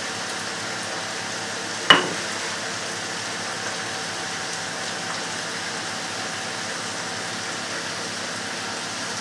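Spiced minced meat sizzling steadily as it fries in oil in a frying pan, a constant hiss. One sharp knock about two seconds in.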